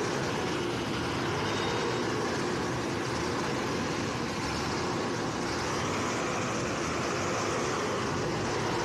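Steady vehicle engine and road noise, running evenly without any sudden events.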